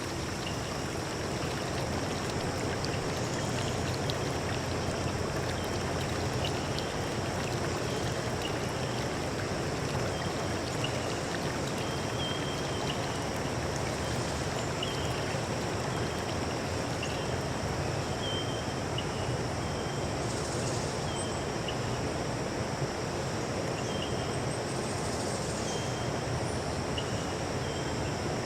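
Stream water flowing steadily, with short high chirps recurring every second or two.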